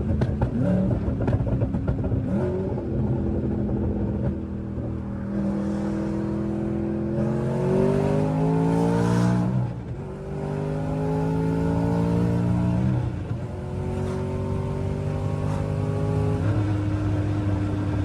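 Twin-turbocharged 2014 Mustang GT's 5.0 Coyote V8 under hard acceleration, climbing in pitch through several gear changes with a brief drop at each shift, then settling to a steady lower tone near the end. The tyres are spinning through the pull on the more aggressive boost map.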